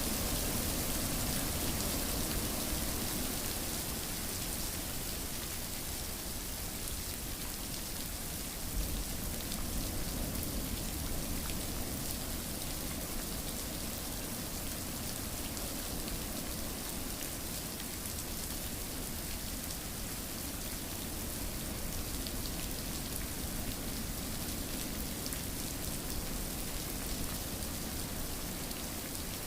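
Steady rain falling and pattering on a surface, an even unbroken hiss with no thunder.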